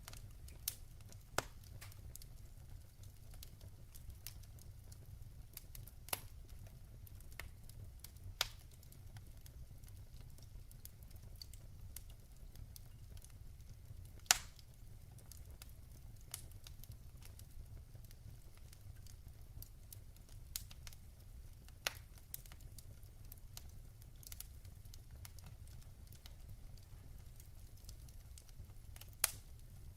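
Log fire burning in a fireplace: irregular sharp crackles and pops of burning wood over a low, steady rumble, with the loudest pop about halfway through.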